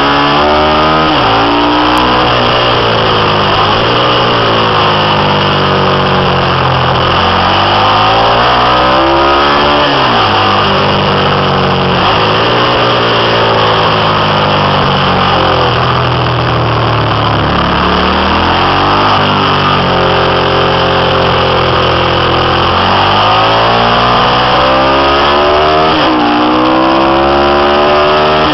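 Freshly rebuilt Ducati 750 air-cooled 90-degree V-twin racing engine lapping a twisty track, revving up through the gears and falling off for corners several times over. Its pitch climbs, drops at each gear change, then climbs again.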